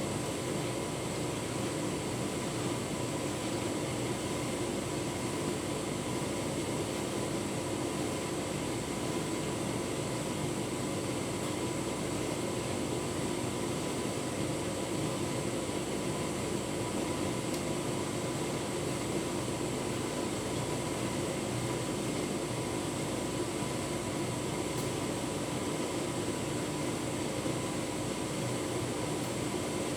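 Tumble dryer running steadily, its motor and fan making an even hum with a faint whine, the drum turning a full load of bedding.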